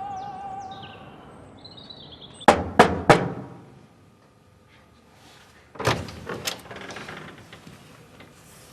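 Two groups of sharp knocks about three seconds apart, three quick raps each, the first group the loudest.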